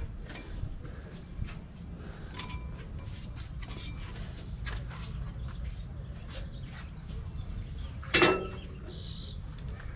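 Workshop handling sounds during brake work: scattered small clicks and taps over a low steady hum, with one loud ringing clank about eight seconds in.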